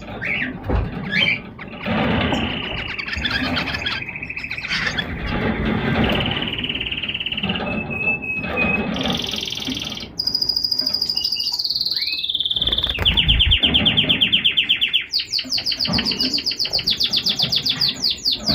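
Pet finch song: varied chirps and notes, then from about two-thirds of the way in, long rapid trills that each hold one pitch before stepping higher. Near the end the song breaks into a quick run of falling notes.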